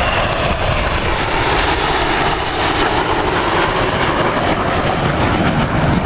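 Fixed-wing display aircraft's engine running loud and steady as it flies its routine.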